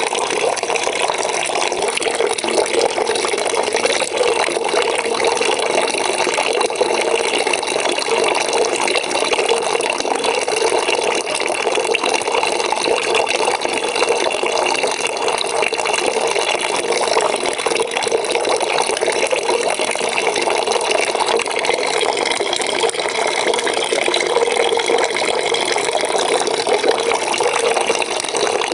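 Water running into a bucket from a tap: a steady splashing and gurgling fill with no breaks.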